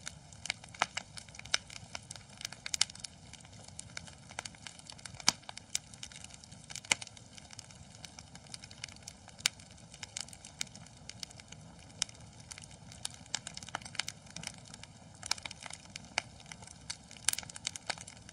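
Wood fire in a fireplace crackling: irregular sharp pops and snaps, a few louder than the rest, over a low steady hiss of flame.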